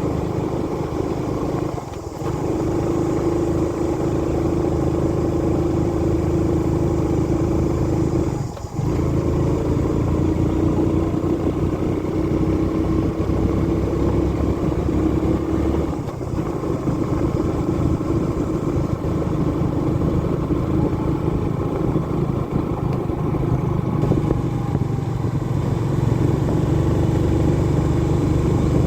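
Motorbike engine running steadily under way, with a droning note that dips briefly three times.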